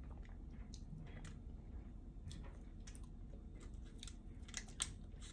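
A person chewing a mouthful of a peanut butter cup, faint, with scattered small mouth clicks, a few sharper ones near the end.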